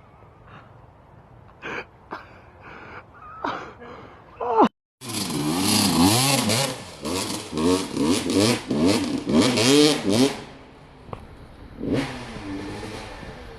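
Scattered light knocks, then after a brief cut a dirt bike engine revving hard, its pitch swinging up and down repeatedly for about five seconds before dropping back to a quieter running sound.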